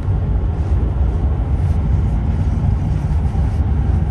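Steady low rumble of a car, engine and road noise.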